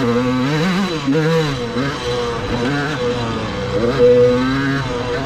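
Dirt bike engine revving up and down repeatedly under changing throttle as the bike is ridden, its pitch climbing and falling several times, loudest about four seconds in.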